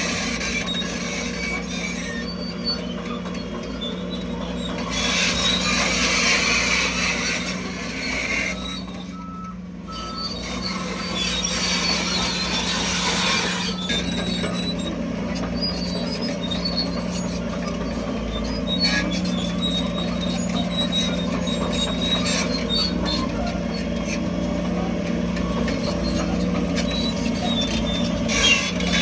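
Heavy diesel machinery, a bulldozer and dump trucks, running steadily with a continuous low engine hum. A short steady tone sounds about nine seconds in.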